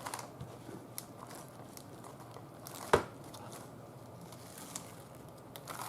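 Paper rustling and crinkling as cut-out paper pieces are handled and laid down, with scattered light ticks and one sharp tap about three seconds in.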